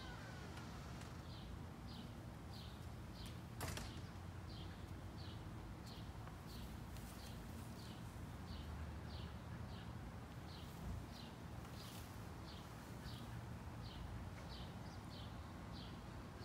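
A bird chirping over and over, short high chirps about twice a second, over a low background rumble. A single sharp knock about four seconds in.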